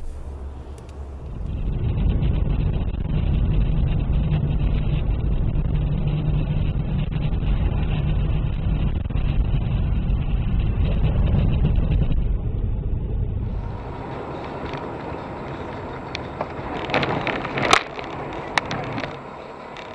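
Car driving, heard from inside through a dashcam: steady engine and road rumble with a low hum. It cuts off abruptly about two-thirds of the way in, giving way to quieter road sound with a few sharp knocks near the end.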